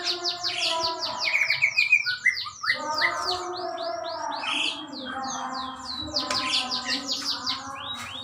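Several songbirds singing at once. One bird repeats fast downward-sweeping chirps, about four to five a second, over other birds' warbling calls.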